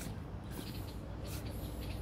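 Small birds chirping: several short high-pitched chirps over a steady low rumble.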